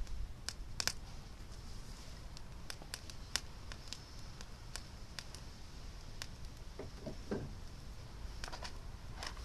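Small fire crackling: scattered sharp pops over a faint steady hiss.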